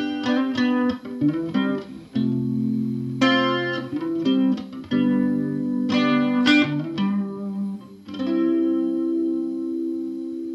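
Solo guitar playing the song's closing bars: chords struck about every three seconds with picked notes between, ending on a last chord about eight seconds in that rings out and slowly fades.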